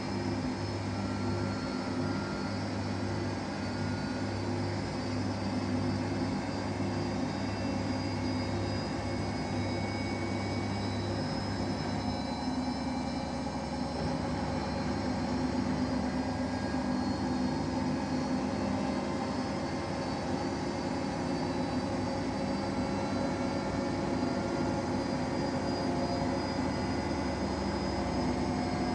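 Samsung Eco Bubble washing machine with an inverter direct-drive motor, running steadily with a hum and several high whining tones, typical of a spin cycle. A low hum drops away about twelve seconds in.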